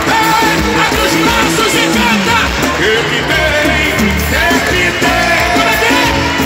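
Loud live worship band music with a steady bass and several voices singing over it, continuous throughout.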